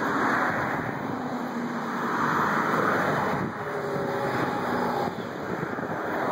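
A car going by: steady engine and road noise that swells about two to three seconds in.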